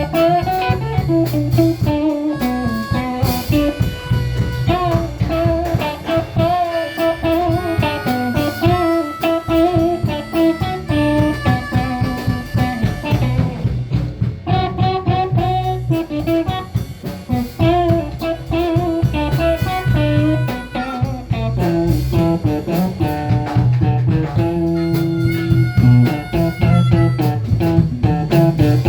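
Blues band playing an instrumental break: a guitar plays melodic lead lines with bent and wavering notes over bass guitar and drum kit.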